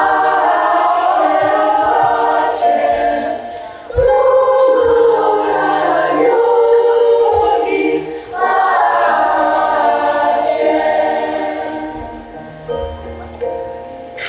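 Children's choir singing in phrases of about four seconds each, growing quieter near the end.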